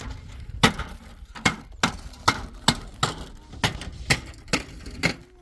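A hammer striking wood in a steady run of about a dozen sharp blows, roughly two a second.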